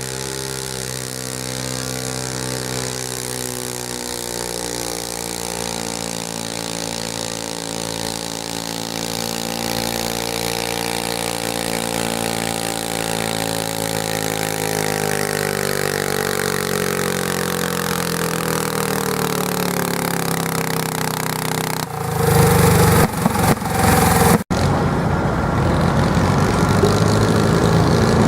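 Garden tractor engine pulling under load: a steady pitched drone that sags slowly in pitch. About three-quarters of the way through it gives way suddenly to a much louder, rougher engine noise, broken by a momentary dropout.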